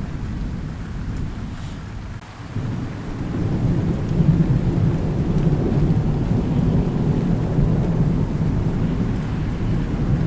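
Thunder rumbling over steady rain. The rumble drops away briefly about two seconds in, then a long, low roll of thunder builds and keeps rolling.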